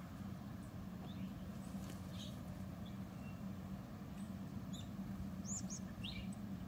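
Scattered short, high bird chirps, clearest as a quick pair about five and a half seconds in, over a steady low rumble and hum.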